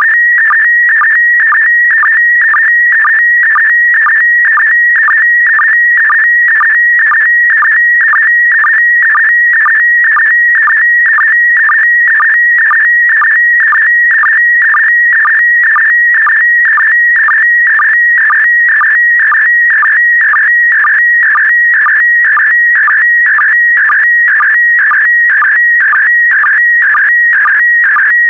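PD120 slow-scan TV (SSTV) image signal: a steady, warbling electronic tone around 2 kHz, broken by a short lower blip about twice a second as each pair of image lines is sent.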